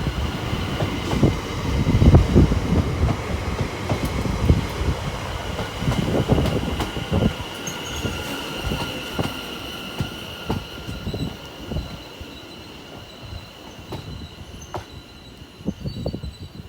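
London Overground Class 710 electric train arriving and slowing at the platform, with a steady high-pitched squeal and irregular wheel knocks over the rail joints. It grows quieter through the second half as it draws to a stop.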